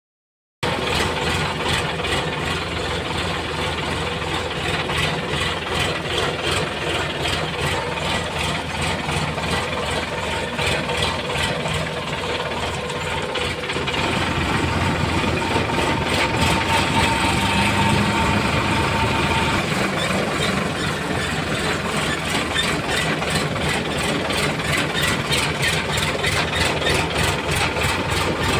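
Sonalika 745 RX tractor's diesel engine running steadily, a little louder from about halfway through.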